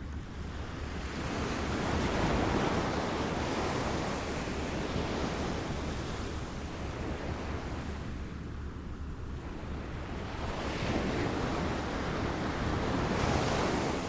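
Small waves lapping at the shore, the wash swelling and ebbing in slow surges, a few seconds apart.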